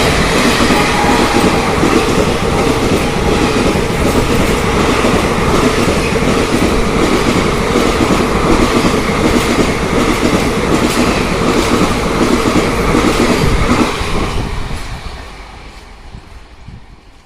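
Express train's passenger coaches rushing past at about 110 km/h, wheels clattering over the rail joints in a fast, steady rhythm. The noise holds steady, then fades away over the last few seconds as the train recedes.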